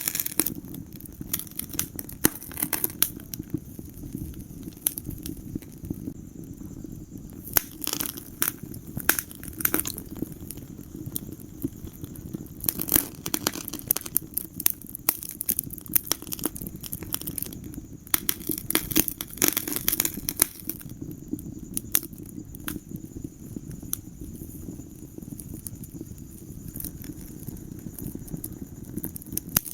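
Wood fire crackling in a fireplace: irregular sharp pops and snaps, thicker in a few bursts of activity, over a steady low rumble of the burning fire.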